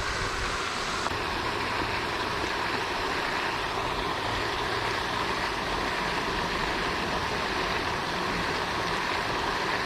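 Steady rushing splash of a pond fountain's spray falling back onto the water, an even noise that stays level throughout.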